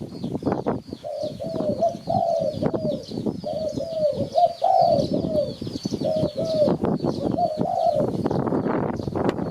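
Spotted dove cooing, a run of short repeated coo notes from about a second in until near the end. Thin high chirps of another bird and a rough crackling background noise run underneath.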